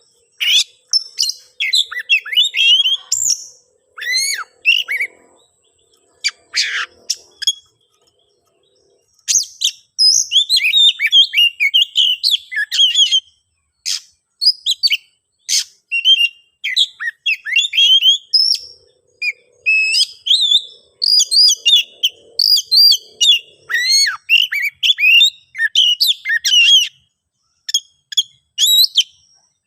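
Oriental magpie-robin (kacer) singing its aggressive territorial song: rapid, varied phrases of sharp chirps and whistles, broken by a pause of about two seconds about a third of the way in.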